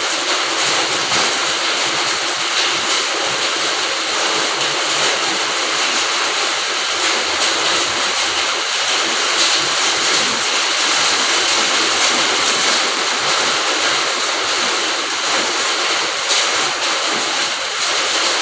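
Steady rain falling on a garden, an even dense hiss with faint ticks of individual drops.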